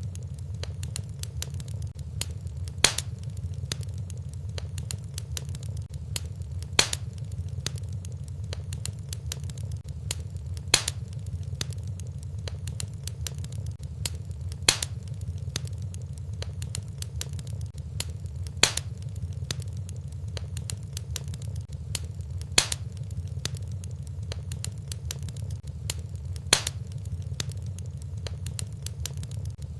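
Wood fire burning in a fireplace: a steady low rumble with small crackles, and a sharp pop about every four seconds at strikingly even spacing, as in a short repeating loop.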